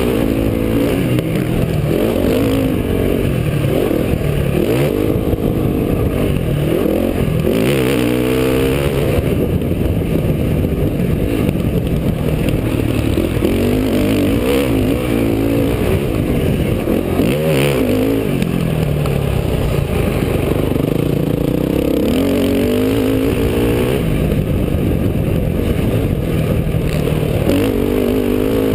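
Motocross dirt bike engine revving up and easing off again and again as the throttle is opened and closed, its pitch climbing several times through the run.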